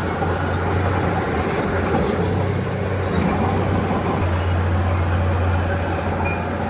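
Komatsu D31P bulldozer's diesel engine running steadily at a constant low pitch, with a continuous mechanical rumble from the working machine.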